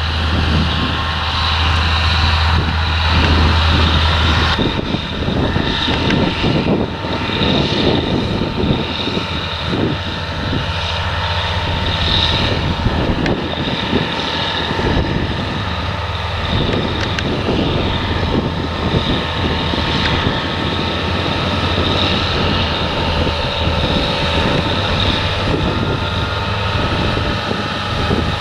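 Potato harvesting machinery, harvester and tractor, running steadily in the field. A deep low drone drops away suddenly about four and a half seconds in, and the dense machine noise carries on.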